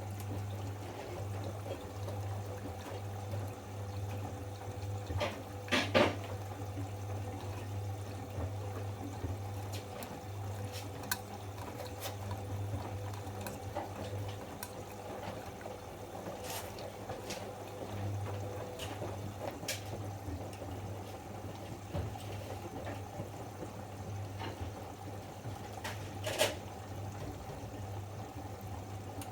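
Bosch Avantixx 7 front-loading washing machine taking in water early in a 90 °C wash, with a steady low hum and the sound of running water. There are a couple of short knocks from the machine, the loudest about six seconds in and another near the end.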